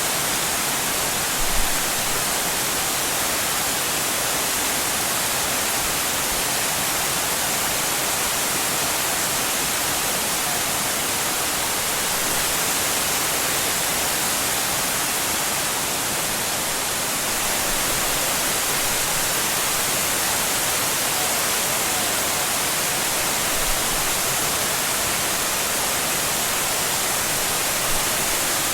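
Waterfall pouring in a steady, even hiss of falling water, with a couple of brief low bumps near the start and the end.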